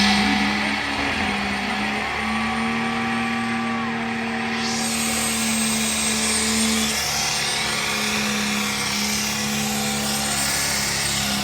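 Truck engine held at a steady high rev, a constant drone, with a loud broad hiss joining about four and a half seconds in.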